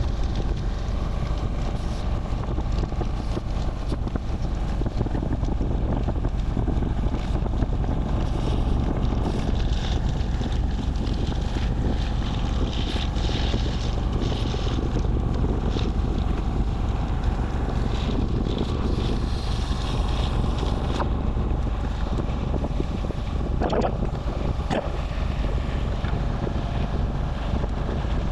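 Steady wind buffeting the microphone, with a low rumble, as from a camera carried on a moving bicycle.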